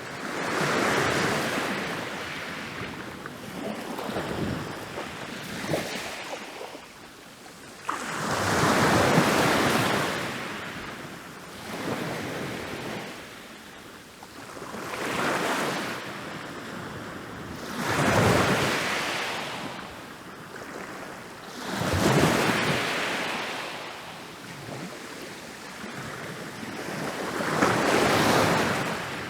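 Ocean waves rolling in and breaking on a beach, each wash swelling and fading away. Larger breaks come every four to nine seconds, with smaller washes between them.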